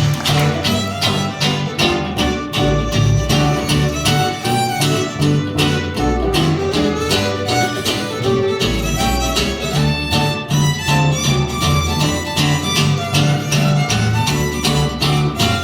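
Western string band playing an instrumental break: a fiddle carries the melody over steadily strummed rhythm guitar and a walking bass.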